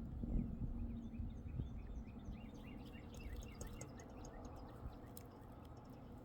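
Faint, rapid chirping of small birds over a low outdoor rumble, with the chirps thinning out after about four seconds.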